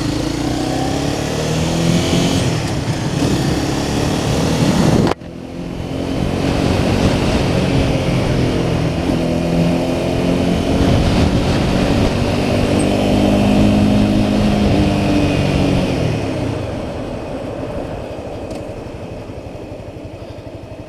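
Honda CBR300R's single-cylinder engine pulling under way. The sound breaks off sharply about five seconds in, then the engine note climbs as the bike accelerates, holds, and eases off, fading over the last few seconds.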